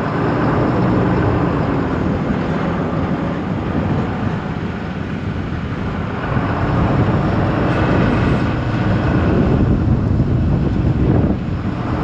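Truck engine running with road and wind noise while driving slowly; the engine note picks up about six seconds in.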